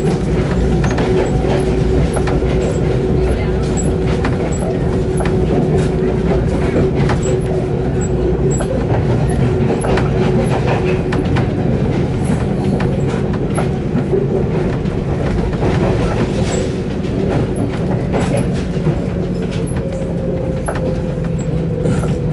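Express passenger train running along the line, heard from inside the carriage: a steady rumble with irregular clicks and knocks from the wheels and track, and a steady hum that shifts a little higher about two-thirds of the way through.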